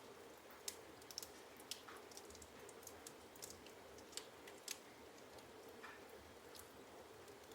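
Wood fire burning in a fireplace: logs crackling with sharp, irregular pops and snaps over a low, steady hiss of the flames.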